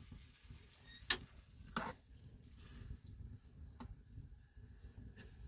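A few sharp clicks or knocks over a low rumble: two louder ones about a second in and just before two seconds, then two fainter ones later.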